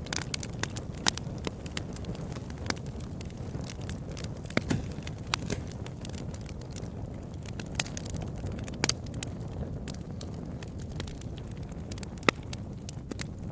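Fire in a fireplace crackling over a steady low rumble, with scattered sharp pops at irregular moments; the loudest pops come about a second in and near the end.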